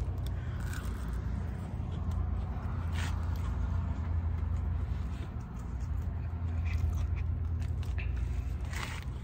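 Chewing on a crispy fried chicken fry, with a few faint crunches, over a steady low hum.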